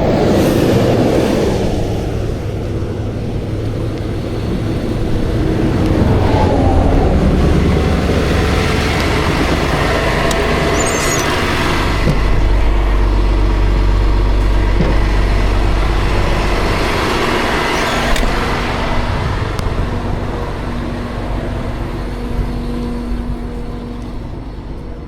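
Interstate traffic passing close by, vehicles rushing past one after another with falling pitch as each goes by. A deep low rumble swells for several seconds in the middle.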